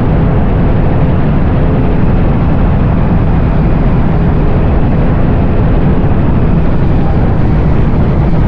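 Motorcycle being ridden at a steady speed: a loud, even rush of engine noise and wind.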